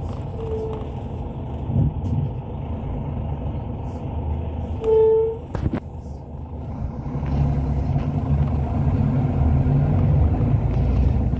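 Hyundai Universe coach's cabin while under way: a steady low rumble of engine and road, growing louder from about seven seconds in. A short beep sounds faintly near the start and a louder one about five seconds in.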